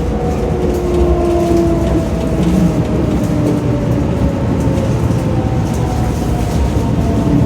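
Shin-Keisei 8800 series electric train running, its Mitsubishi GTO-VVVF inverter and traction motors giving several thin tones that slide slowly down in pitch over a steady rolling rumble, as the train slows.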